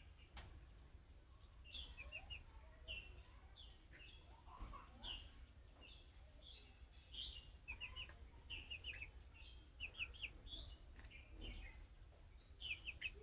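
Budgerigars chirping faintly: short high chirps and quick runs of chirps, some rising in pitch, about once a second, over a low steady hum.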